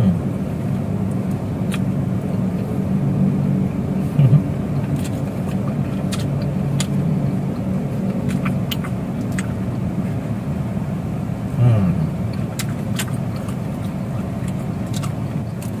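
Steady low hum of a parked car idling, heard from inside the cabin, with scattered small clicks from handling a plastic food tray and chewing. Two brief louder sounds come about four and twelve seconds in.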